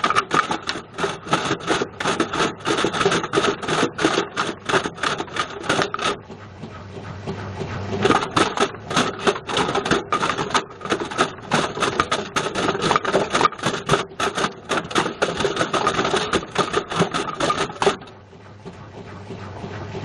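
A Bush VCR807 video recorder tumbling in a washing machine drum, its casing clattering and banging against the drum several times a second. Twice the banging stops for about two seconds while the drum motor hums and speeds up, then the clatter starts again.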